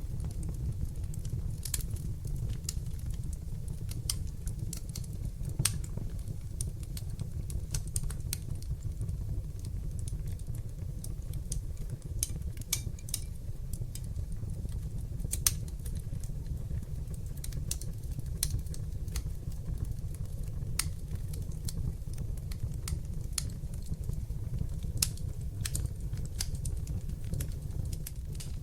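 Wood fire burning in a fireplace: a steady, deep rumble of flames under sharp crackles and pops that come at irregular intervals.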